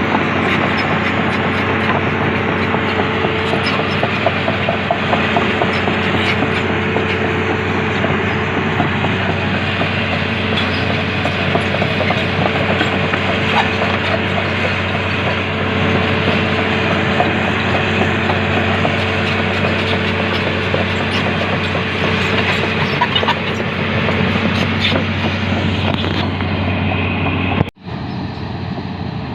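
Excavator's diesel engine running steadily under work, with a constant metallic clatter and rattling from the machine.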